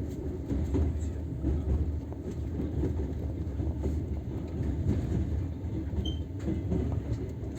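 Passenger train wheels clattering over the rail joints, with a steady low rumble of the running train.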